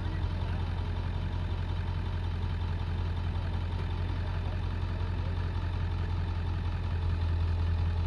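Box truck's engine idling with a steady low hum, getting slightly louder about seven seconds in.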